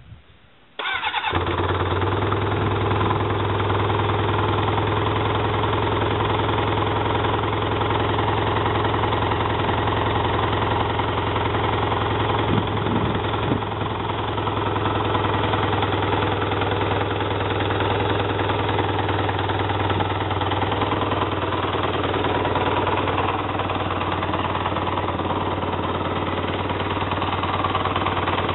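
Kawasaki Ninja 600R motorcycle's inline-four engine starting less than a second in, then idling steadily.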